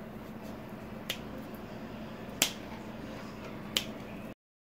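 Kitchen shears snipping through butcher's twine on a roast: three sharp snips about a second and a half apart over a faint steady hum. Near the end the sound cuts off suddenly.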